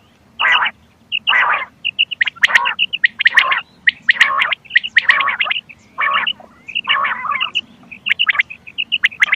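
Recorded quail calls of the kind played as a hunting lure. Short clear high notes in quick twos and threes alternate with longer, harsher rasping calls, repeating about once a second.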